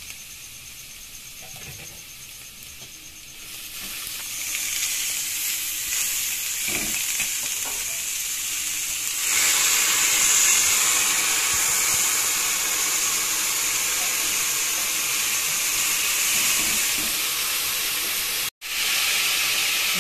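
Chopped onion, garlic and chilli sizzling in hot oil in a non-stick pan, with shredded cabbage tipped in on top. The sizzle is soft at first, grows louder about four seconds in and again about nine seconds in, and breaks off for an instant near the end.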